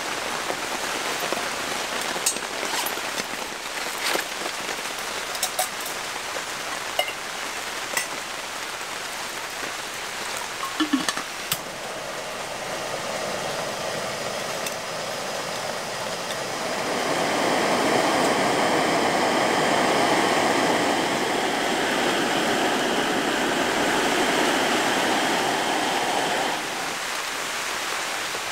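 Heavy rain falling steadily, with scattered clicks and knocks of camp gear being handled. About halfway through, a louder steady rushing joins in for around ten seconds and then stops suddenly: a canister gas stove's burner running under a pot.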